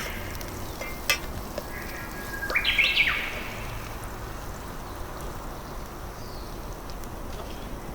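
A bird calling in short, stepped chirping notes, loudest about two to three seconds in, over a faint steady outdoor background. A single sharp click comes about a second in.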